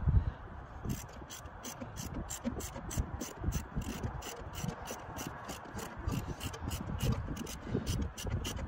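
A hand ratchet wrench clicking in a steady run of about five clicks a second, starting about a second in, after a low thump at the very start.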